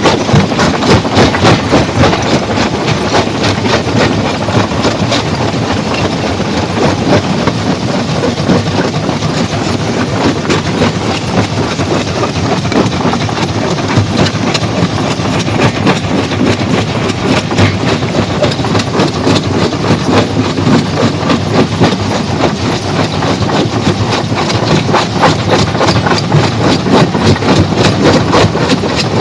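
A stone-crushing machine running under load, with a steady heavy mechanical din and a constant fast, irregular clatter of rocks knocking and breaking.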